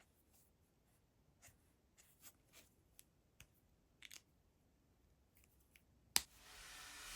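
Faint, scattered scratches of a drawing pen or pencil on sketchbook paper, with one sharper click about six seconds in.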